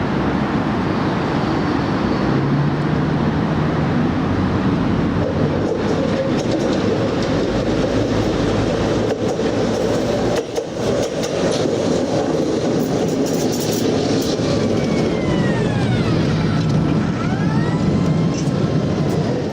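Tram running on crooked, uneven track: a steady rumble and rattle of wheels on rails, with a few short gliding squeals near the end.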